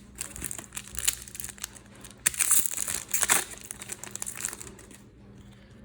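Trading-card packet wrapper being torn open and crinkled by hand, an irregular crackling rustle that is loudest from about two to three and a half seconds in.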